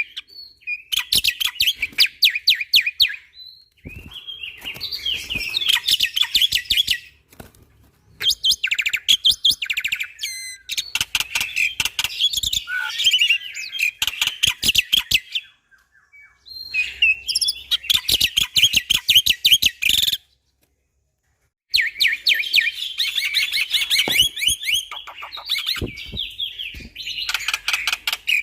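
Black-winged myna (jalak putih) singing loudly in phrases of rapid, repeated sharp notes fired off in quick succession, each phrase lasting a few seconds with brief pauses between, and a full break of about a second and a half a little after two-thirds of the way through.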